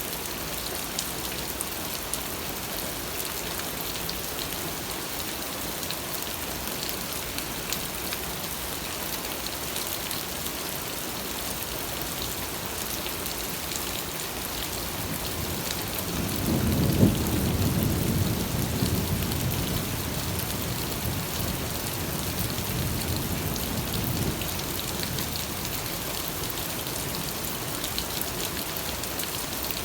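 Steady rain falling, with scattered drops ticking on a surface. About sixteen seconds in, a low rumble of thunder swells, peaks a second later, and fades out over several seconds.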